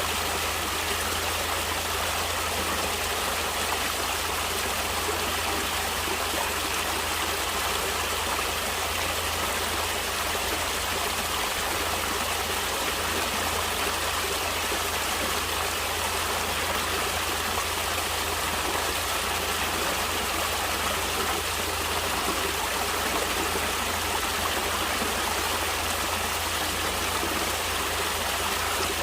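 Water flowing in a stream, a steady rushing that never changes or breaks.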